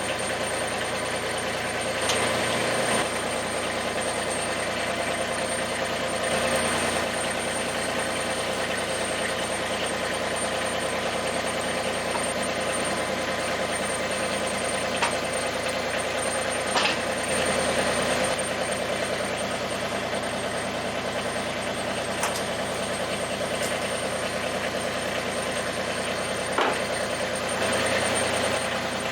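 Massey Ferguson GC2300 sub-compact tractor's three-cylinder diesel engine running steadily. The sound swells briefly about four times, and a few sharp clicks or knocks come over it.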